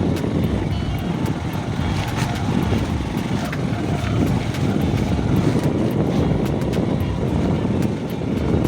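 Motorcycle running on the move, mixed with steady rumbling wind noise on the microphone and scattered small knocks and rattles.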